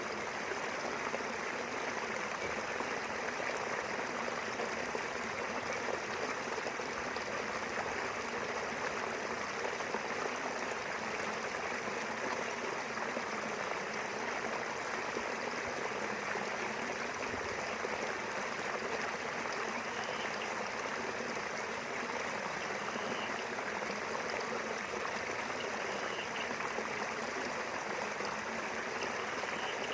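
River water flowing steadily over its bed, an even rushing and babbling.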